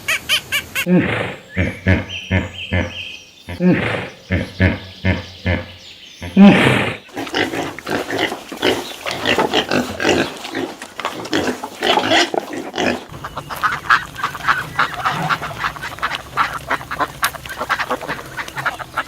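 Farm animal calls, repeated in quick succession.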